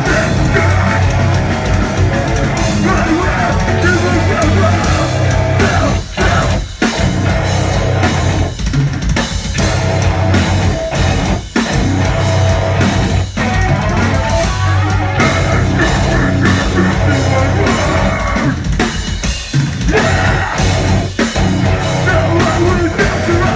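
Live heavy rock band playing, with drum kit and distorted electric guitars, recorded loud and dense from the audience. The sound drops briefly a few times, around six, eleven and thirteen seconds in.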